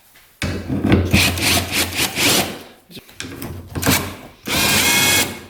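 Hand tools scraping and rubbing in several stretches while a small screw is worked out. The loudest and densest stretch comes near the end.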